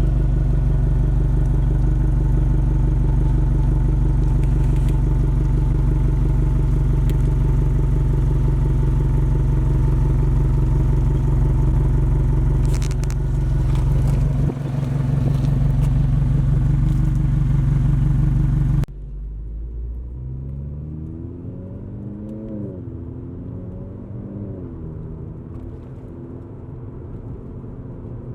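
2022+ Subaru WRX's 2.4-litre turbocharged flat-four through an AWE Touring catback exhaust, running loud and steady at a constant pitch. Just under 19 s in it cuts suddenly to a quieter take in which the engine note rises and falls several times.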